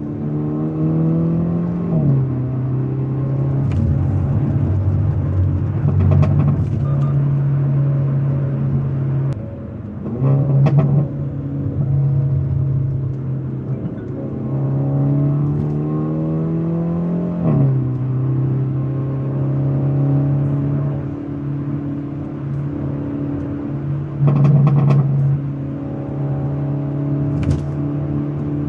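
Hyundai Avante N (Elantra N) 2.0-litre turbocharged four-cylinder under way, its engine note rising and dropping at upshifts about two, nine and a half, and seventeen and a half seconds in. A few short, sharp cracks sound over it.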